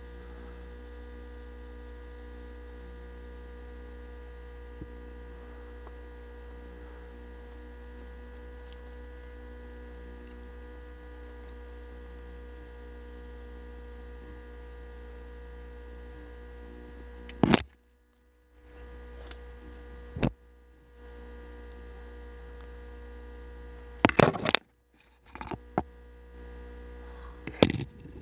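Steady electrical hum: a low drone with thin, even whining tones above it. In the last third a few sharp clicks or knocks cut in, and the hum briefly drops out after some of them.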